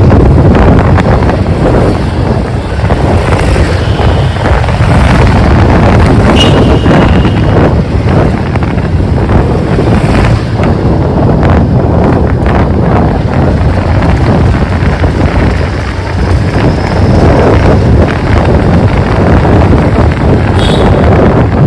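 Wind buffeting the microphone of a moving motorcycle, with engine and road noise beneath. A short, steady high tone sounds about six seconds in.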